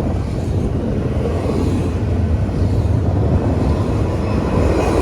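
CSX freight train passing close by: a steady, loud rumble with the low drone of a diesel locomotive engine.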